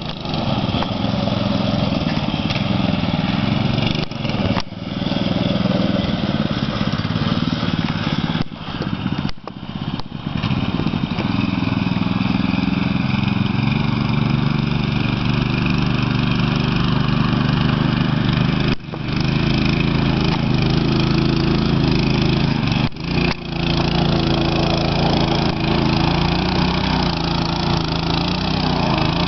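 Baja Warrior minibike's small single-cylinder engine running hard through deep sand, with a few brief drops in level along the way.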